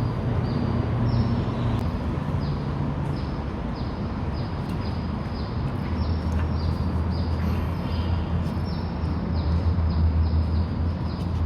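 Outdoor background: a steady low hum, with a short high falling chirp repeating about twice a second.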